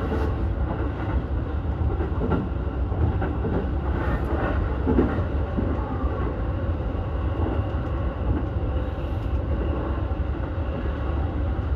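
E233-1000 series electric commuter train running between stations, heard from inside the leading car: a steady rumble of wheels on rail with faint clickety-clack.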